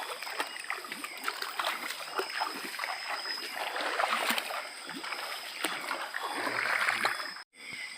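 Water splashing and sloshing in a shallow river, with small scattered knocks and rustles.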